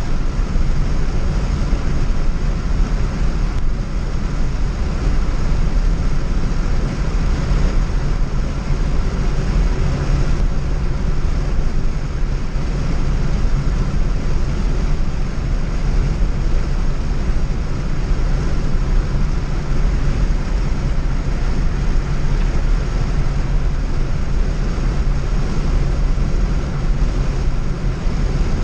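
Steady road noise inside a vehicle cruising on the highway: a low engine and tyre drone with a constant hum and an even rush of wind and road noise, unchanging throughout.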